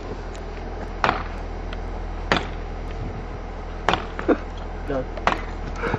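Several sharp cracks, about four, spaced roughly a second or more apart, over a steady low rumble, with brief snatches of voices near the end.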